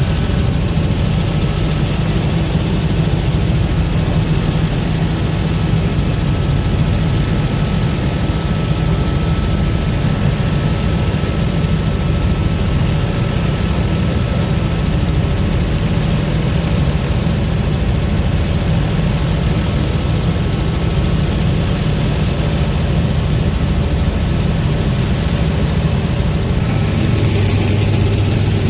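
Helicopter in flight heard from aboard: steady loud rotor and engine noise, deepest and strongest low down, with a thin steady high whine over it.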